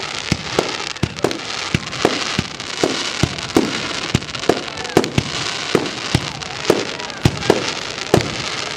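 Fireworks display: a quick run of sharp bangs from bursting shells, more than one a second, over a continuous crackling hiss.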